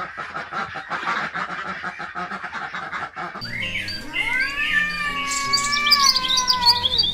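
Ducks quacking in a quick run of short calls. About three and a half seconds in, this gives way to a cat's single long, drawn-out meow that rises, holds and falls in pitch over about three seconds.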